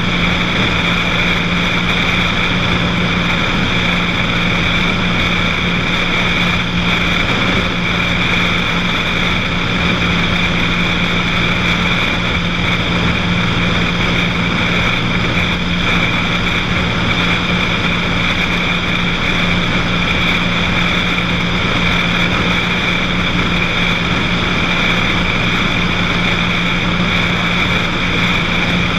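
Cessna 182's piston engine and propeller droning steadily, heard from inside the cabin, with a constant hum and no change in pitch.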